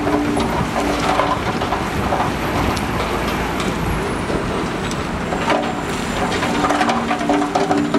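Heavy construction machinery working: a diesel engine running with a steady pitched drone that fades and returns, over a rough rumble with scattered knocks and clanks.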